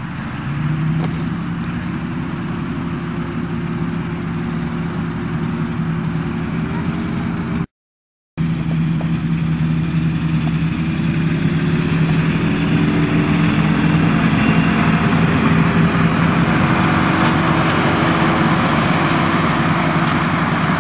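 Ford truck's diesel engine running steadily, just brought back to life after years unused. Its speed picks up slightly a couple of times, and the sound cuts out completely for under a second about eight seconds in.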